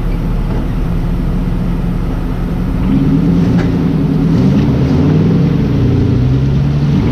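Jeep engine revving while stuck in deep mud ruts, trying to pull free. It gets louder about three seconds in, and its pitch rises and falls with the throttle.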